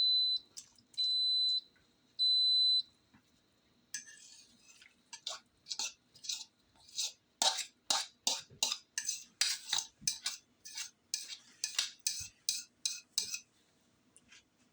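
Three electronic beeps from an Instant Pot, then a long run of quick clinks and scrapes of a utensil against the metal inner pot.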